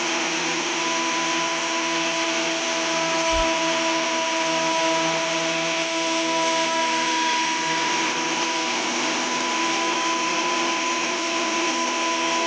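Electric woodworking power tool running steadily, a constant motor whine over broad noise with no change in load.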